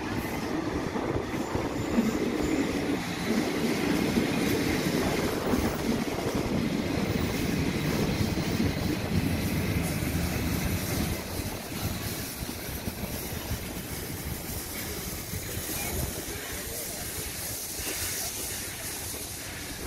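Heritage train rolling past on the rails: a steady rumble of wheels and running gear, loudest in the first half and easing off after about eleven seconds.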